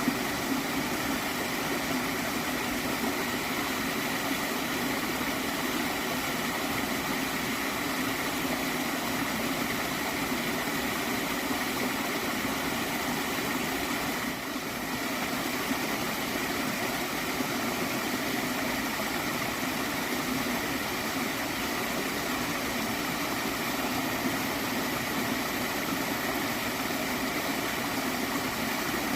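Gently flowing water stream gurgling steadily, an unbroken rush of water that softens briefly about halfway through.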